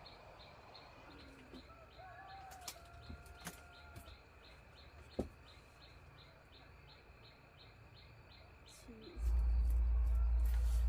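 Quiet outdoor ambience with faint bird chirps, a few clicks and a faint fast, even high ticking. About nine seconds in, a loud steady low hum starts suddenly.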